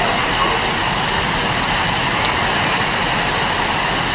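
Heavy rain falling, a steady dense hiss with faint scattered drop ticks.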